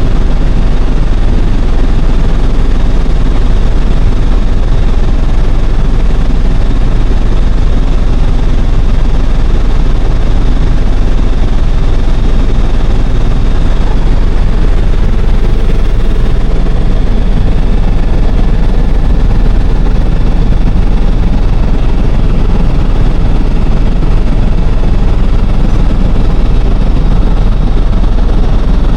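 Helicopter in flight: loud, steady engine and rotor noise, heaviest in the deep low end, with no change in level.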